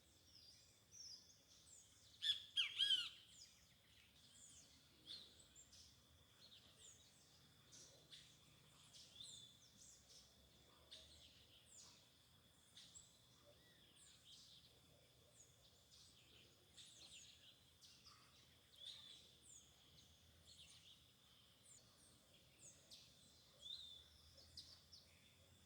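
Birds chirping: many short, high, downward-sliding chirps repeating throughout, with a louder burst of calls about two to three seconds in, over a faint steady high-pitched tone.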